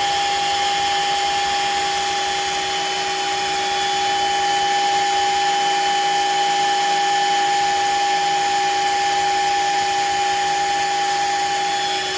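Shark HydroVac MessMaster cordless wet-dry vacuum mop running at a steady speed: a constant motor whine over an even rush of air.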